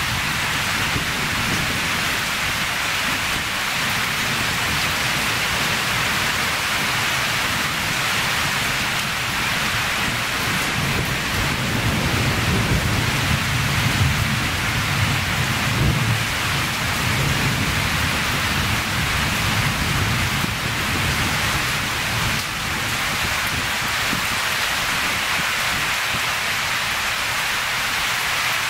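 Storm rain falling steadily, a dense even hiss with no break; a low rumble swells and fades through the middle.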